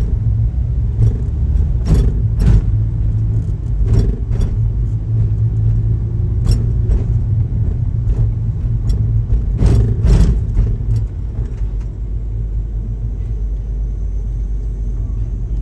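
Steady low vehicle rumble, with a scatter of sharp knocks or rattles in the first two-thirds, after which only the rumble carries on.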